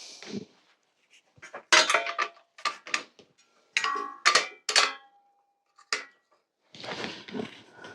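Small metal tools and bike parts clinking and clattering against each other and a hard surface, a dozen or so sharp knocks, one of which rings on briefly just before five seconds in, then a rougher scraping rattle near the end.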